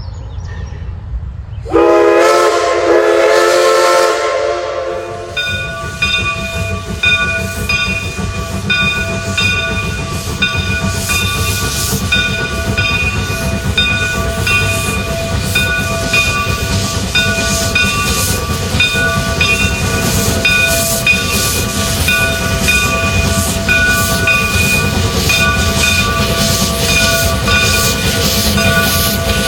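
Steam locomotive whistle blows a single chord-like blast of about three seconds, starting about two seconds in. It is followed by steady train running noise with a pulsing, evenly repeating pitched tone over a low rumble.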